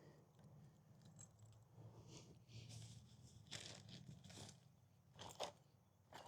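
Near silence over a faint low steady hum, with a few short, faint scrapes and clicks of something being handled, most of them in the second half.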